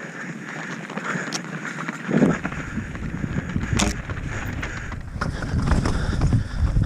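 Transition Sentinel V2 mountain bike rolling over a rough trail: tyre noise and the frame rattling, with sharp knocks at a couple of points. Wind buffets the microphone from about two seconds in.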